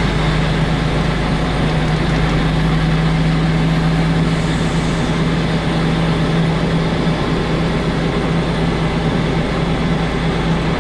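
Heavy truck's diesel engine running steadily, heard from inside the cab: an even low hum with one constant pitch and no change in revs.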